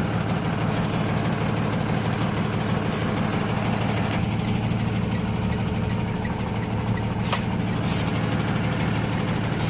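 Box truck's Cummins diesel engine running at a steady low idle as the truck creeps backwards. A few short, high hissing sounds come now and then.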